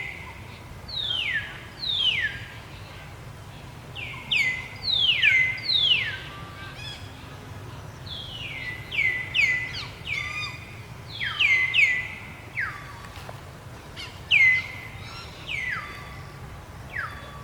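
Birds calling: repeated high chirps that drop sharply in pitch and come in quick clusters of two or three, over and over.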